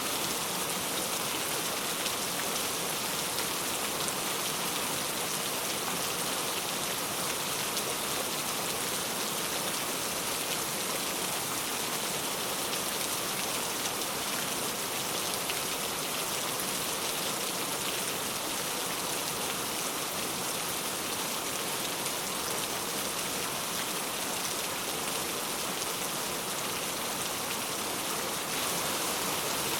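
Steady rain falling, a continuous even hiss of drops on a surface.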